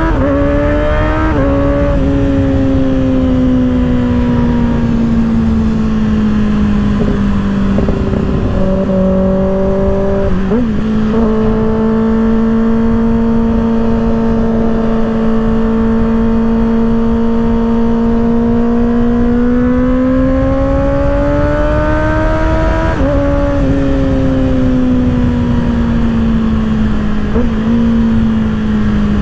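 Kawasaki ZX-6R's inline-four through an M4 aftermarket exhaust, heard while riding: the note climbs and drops with an upshift about a second in, holds a steady cruise, then climbs again and drops through two more upshifts near the end. Wind rush underlies it throughout.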